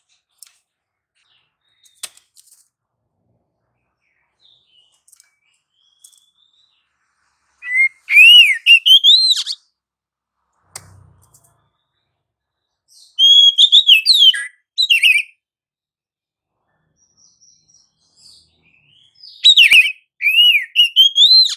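Oriental magpie-robin (kacer) singing in three loud bursts of rising and falling whistled phrases, with quiet pauses between them.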